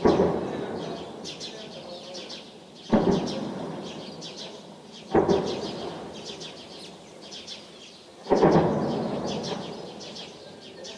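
Four heavy distant explosions from armed clashes, each a sudden boom followed by a long rumbling echo that fades over a couple of seconds. Birds chirp in the background.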